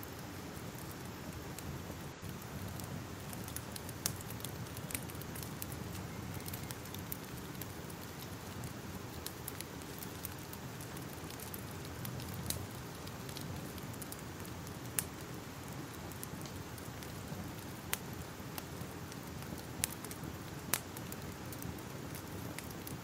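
Fire crackling steadily, a constant hiss and rumble with sharp pops standing out every few seconds.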